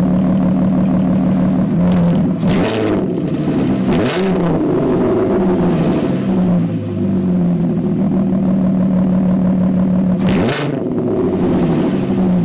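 Volkswagen Golf R32's 3.2-litre VR6 engine idling loud and raw, its exhaust open straight out of the catalytic converters with no resonator or back box fitted. It is blipped in short revs about two to four seconds in and once more near the end.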